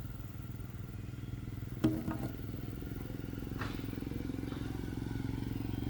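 A small engine running steadily, with a sharp knock and a lighter one about two seconds in.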